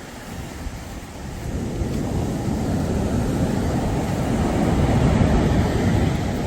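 Sea surf washing onto the shore, swelling from about a second and a half in to a peak near the end, with wind rumbling on the microphone.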